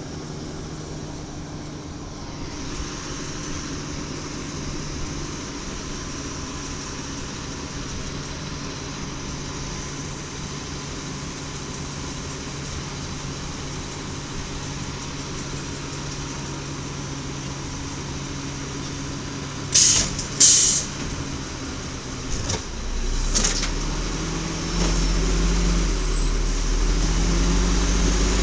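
Garbage truck engine idling steadily. About 20 seconds in come two short, loud hisses of air, typical of air brakes. From about 23 seconds the engine revs up, rising in pitch and getting louder in steps.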